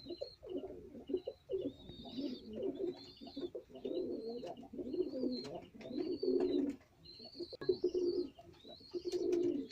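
Domestic pigeons cooing steadily in the loft, with a short high chirp repeating about once a second over the cooing.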